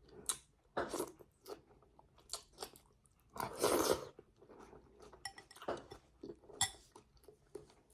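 A person chewing and crunching food close to the microphone, in short irregular mouthfuls, the loudest a little after three seconds in.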